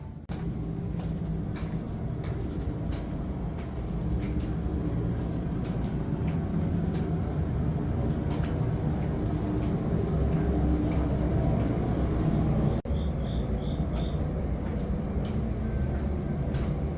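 Steady low rumble of a moving vehicle, with four short high beeps about thirteen seconds in.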